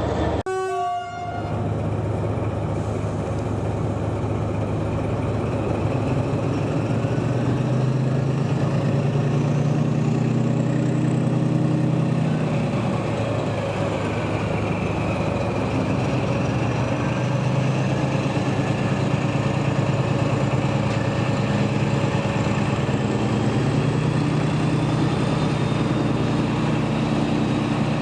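Diesel locomotive running with a steady low engine note, with a faint high whine that rises and falls above it. The sound breaks off briefly about a second in, then carries on.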